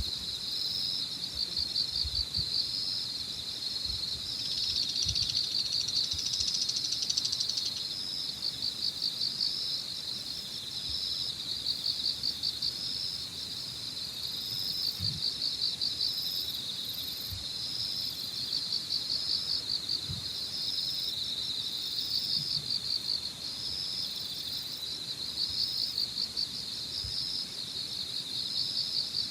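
Early-autumn evening chorus of crickets and other insects, a steady mass of pulsing trills, with a denser buzzing trill about five to seven seconds in. Occasional low wind buffets on the microphone.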